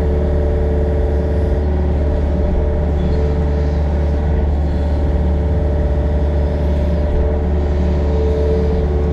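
Yanmar excavator's diesel engine running steadily while digging and grading dirt, a constant low drone with a steady higher whine above it.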